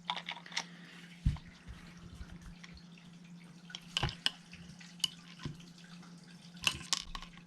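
Scattered small clicks and taps as the Phillips-head bolt and nut of a GHK G5 gas-blowback airsoft rifle's pistol grip are handled and fitted, about nine in all, over a steady low hum.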